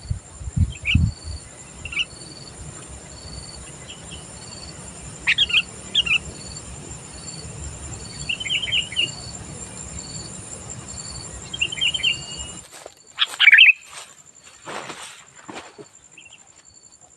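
Sooty-headed bulbul calling: scattered short chirps and brief warbled phrases, with louder calls near the end. A faint high steady buzz with a regular pulse, like insects, runs beneath until about two-thirds of the way through, then stops.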